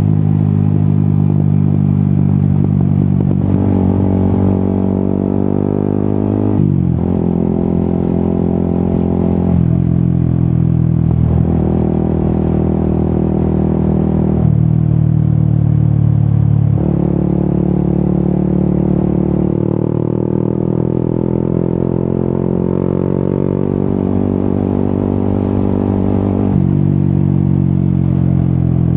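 Yamaha XSR 155's single-cylinder engine running through an aftermarket Akrapovic exhaust while riding. Its note steps up and down every few seconds with throttle and gear changes.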